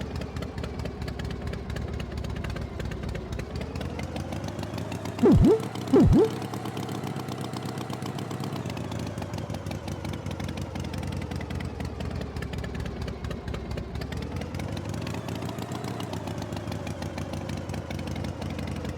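Tractor engine running steadily, its pitch slowly rising and falling. About five and six seconds in, two short, loud sounds swoop sharply down in pitch and back up.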